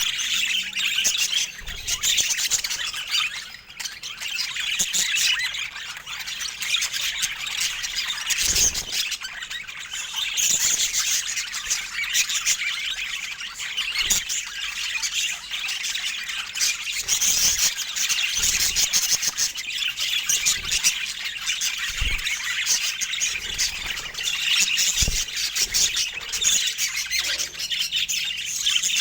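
Budgerigars chattering continuously, with a steady mix of warbling chirps and squawks.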